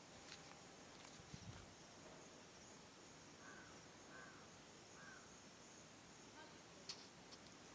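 Near silence: faint outdoor ambience with a few faint, short bird calls repeated in the middle.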